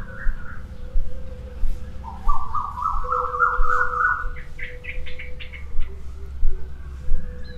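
A bird calling in runs of short repeated notes that climb in pitch; one run starts about two seconds in and rises higher and faster near the middle, over a low steady rumble.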